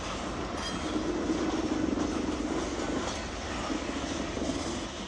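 Open-top coal cars of a freight train rolling slowly past on jointed track: a steady rumble of wheels on rail that swells a little in the middle.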